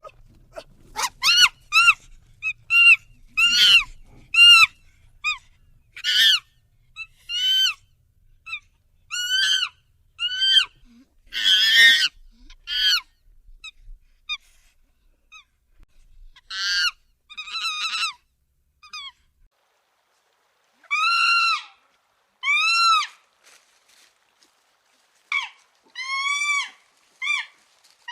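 Chimpanzee calling: a long series of short, high-pitched calls, each rising and then falling in pitch, with short pauses between them. About twelve seconds in comes a longer, rougher scream.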